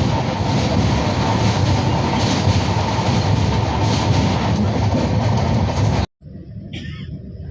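Azad Hind Express LHB passenger coach running at speed on the rails: a loud, steady rumble with wheel-on-rail noise. It cuts off abruptly about six seconds in, giving way to much quieter background sound.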